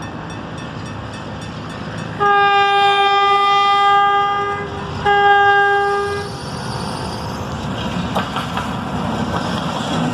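Locomotive horn sounding two blasts, a long one of about two and a half seconds and then a shorter one, over the steady rumble of a passenger train; a few wheel clicks follow near the end.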